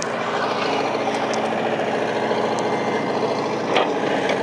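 A small vehicle's engine running steadily while under way, with a short sharp noise near the end.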